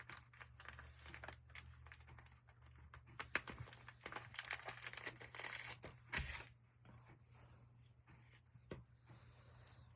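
Wool roving being pulled apart and handled, a soft tearing and rustling of fibres with small clicks, loudest from about three to six and a half seconds in.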